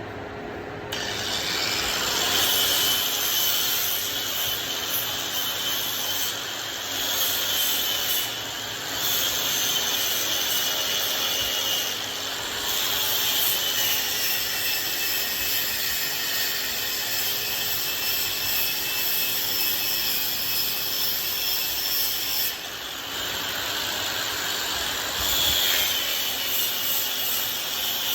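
A power tool working wood: a steady rubbing, abrasive noise with a wavering high whine over it. It starts about a second in and eases off briefly a few times.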